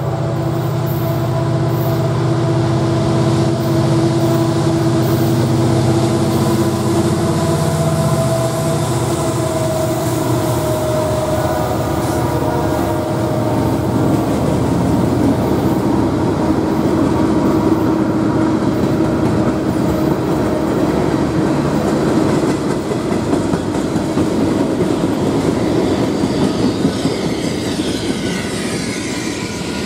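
Diesel-electric freight locomotives passing, their engines' deep drone strong for the first eight seconds or so and then fading. Freight cars and tank cars follow rolling by, a steady rumble of steel wheels on rail with clicking over the rail joints and some high wheel squeal near the end.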